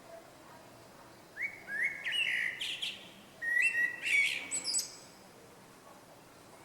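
A small songbird singing two short phrases a second or so apart, each opening with a few notes stepping up in pitch and ending in quick, higher notes.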